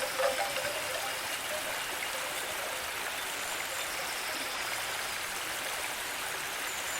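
Steady hiss of running water, like a stream, with no change in level. A few chime notes fade out in the first half second.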